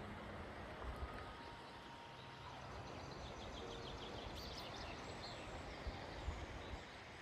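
Faint outdoor background noise with a small bird chirping in a quick series of high notes about three to five seconds in.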